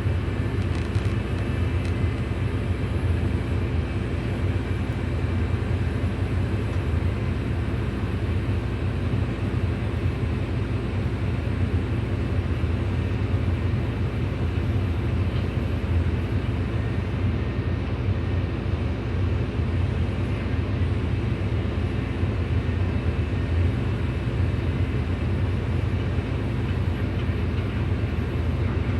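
Hydraulic excavator's diesel engine running steadily under load, a deep even drone with no breaks.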